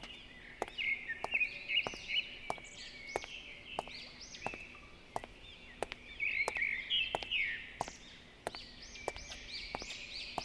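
Birds chirping, many short arched notes overlapping throughout, with a sharp click repeating roughly twice a second and a faint steady hum underneath.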